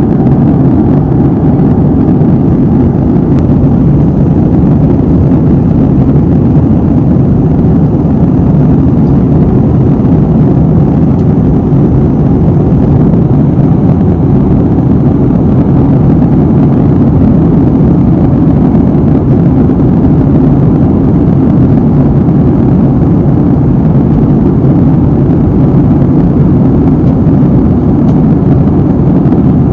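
Steady low roar of a jet airliner in cruise, heard inside the cabin at a window seat: engine and airflow noise, even and unchanging.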